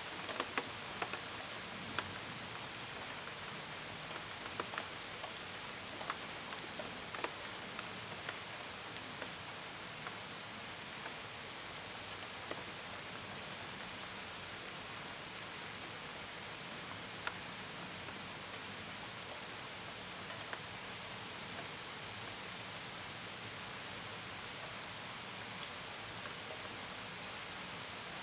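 Steady gentle rain with scattered drops tapping sharply, more of them in the first several seconds. Crickets chirp behind it in a high, even rhythm.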